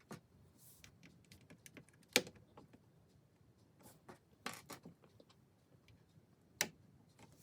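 Small plastic LEGO pieces clicking and tapping as they are handled and pressed together: scattered light clicks, with sharper ones about two seconds in, near the middle and near the end.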